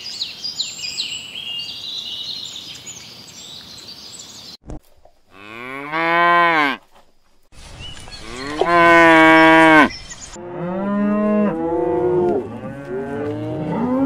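Cattle mooing: a short moo, then a long loud one, then several overlapping moos at different pitches from more than one animal. High thin chirping over a hiss comes before them, in the first four seconds or so.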